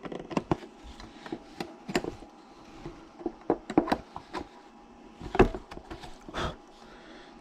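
A series of irregular knocks and clicks, with the loudest about two seconds in and again near the middle.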